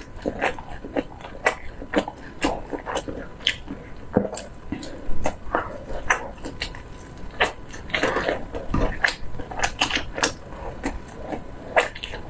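Close-miked chewing and mouth smacks from a person eating sauced skewered food, an uneven run of short clicks and smacks.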